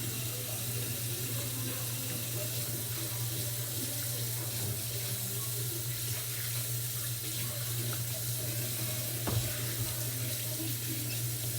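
Water running steadily from a tap into a sink while someone washes their hands under it.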